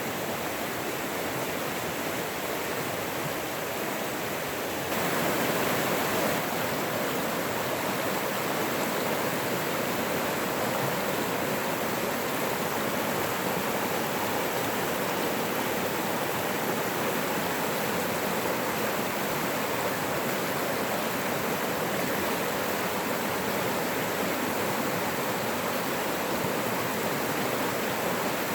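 Running water, an even steady rush with no distinct splashes, stepping up slightly louder about five seconds in.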